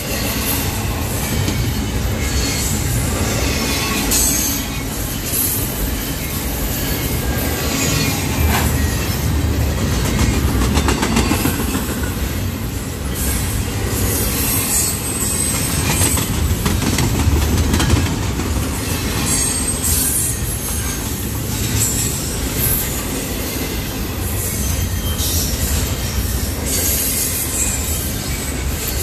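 Long double-stack container freight train rolling past: a steady rumble and clatter of the cars on the rails, with high wheel squeals that come and go.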